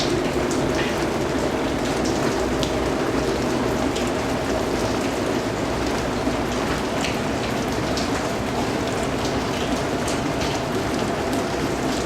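Steady rain falling on a surface: an even hiss, with individual drops landing here and there.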